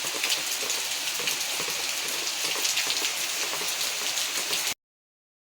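Heavy rain falling steadily, a dense hiss with many scattered drop ticks. It cuts off suddenly near the end.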